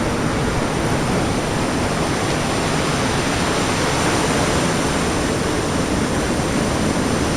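Ocean surf and wind on the microphone: a steady, even rush of noise with no breaks.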